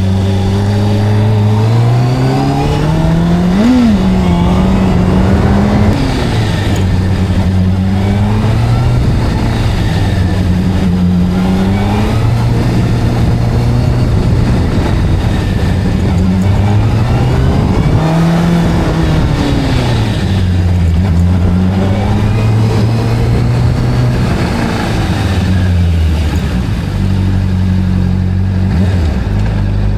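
Video-game motorcycle engine sound running continuously, its pitch rising and falling as the bike speeds up and slows, and holding steady for a few seconds at a time in between.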